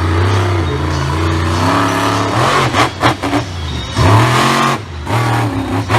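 Monster truck engine revving hard, its pitch climbing and dropping several times.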